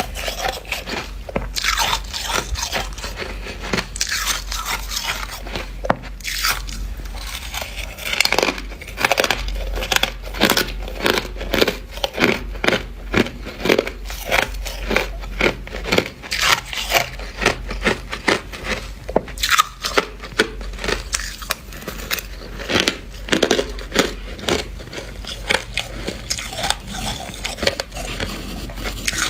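Close-up crunching and biting of dry, squeaky freezer frost being chewed, a quick irregular run of crisp crunches that goes on without a break.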